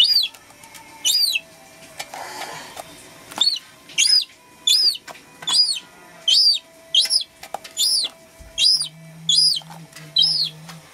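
Young gull chick calling over and over: about a dozen high-pitched peeping calls, each rising then falling in pitch, spaced about a second apart at first and then somewhat faster, the repeated calling typical of a begging chick.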